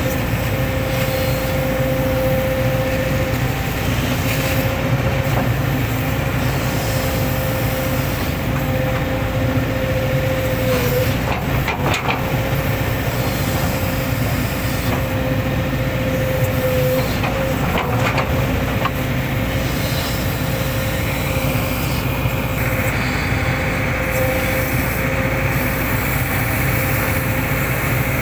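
Hitachi hydraulic excavator running steadily under work, with a constant high whine over the engine and a couple of sharp knocks.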